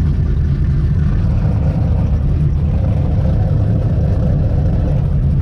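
Plymouth Satellite's big-block V8 running at a steady low speed: a loud, even, low rumble with no revving.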